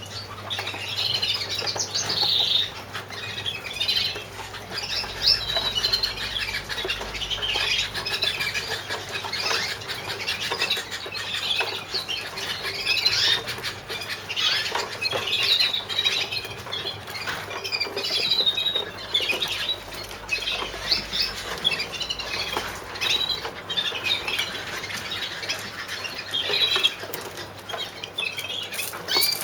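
Several young canaries in small show cages, calling over and over in short chirps, with wing flutters and small clicks of birds moving about the cages.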